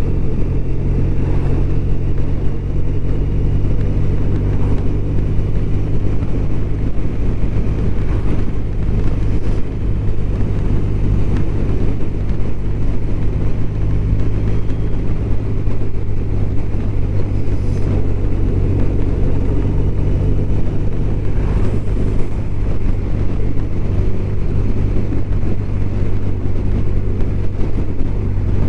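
BMW R1200RT's boxer-twin engine running steadily while the motorcycle cruises on the road.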